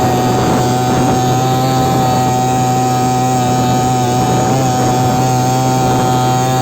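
Carver 3.8 hp outboard motor running at a steady high speed, a constant high-pitched drone with no change in revs.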